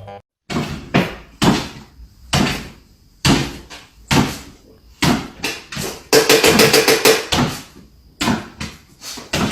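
Repeated sharp knocks or bangs, about one or two a second, with a quick rattling run of them a little past the middle.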